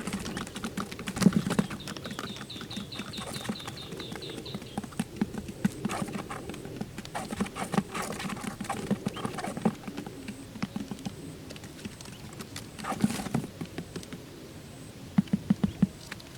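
Irregular light taps and clicks, with a fast run of ticks about two seconds in and a quick cluster of taps near the end.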